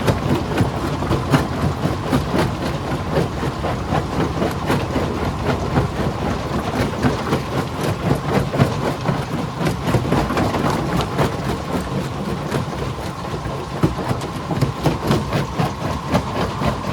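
Stone crusher running: a steady low drone from the machine under a continuous, irregular clatter of rock knocking and rattling as it is broken.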